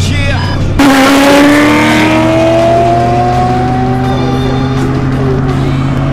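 Supercharged Ford V8 under hard acceleration: it comes in suddenly and loud about a second in, then its pitch rises slowly as it pulls through a gear. Music plays underneath.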